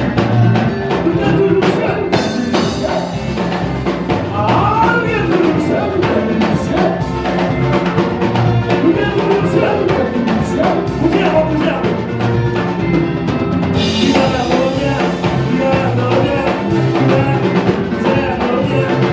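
Live worship music: a band with drum kit and instruments playing, with singing.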